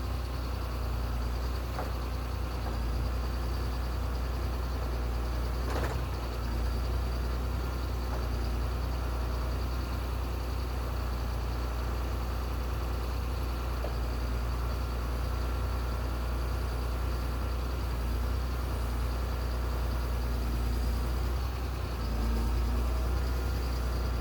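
A heavy engine running steadily with a deep low rumble, with a few short knocks or clanks over it and a slight rise in level near the end.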